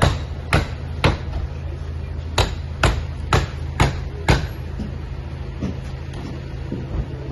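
Repeated sharp blows like hammering, about two a second: some nine strong strikes in the first four seconds or so, then a few fainter ones, over a low steady hum.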